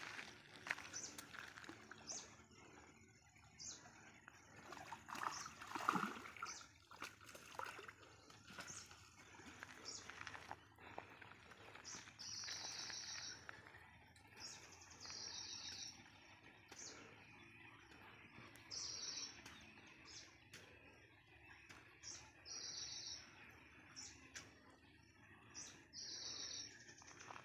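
A bird calling repeatedly, each call a short, high chirping trill, coming every two to three seconds through the second half. Earlier there are scattered small clicks and rustles of line handling, and one louder thud about six seconds in.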